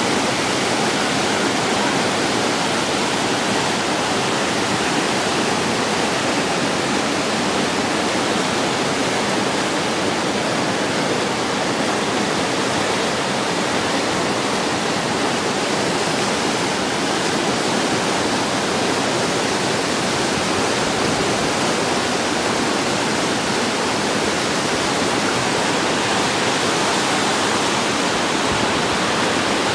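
A mountain river rushing steadily over rocks, swollen and running high after rain.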